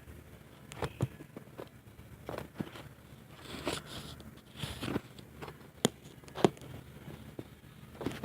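Scattered knocks, clicks and rustles of a camera being handled and set in place, with someone moving about on foot; two sharper knocks come about six seconds in.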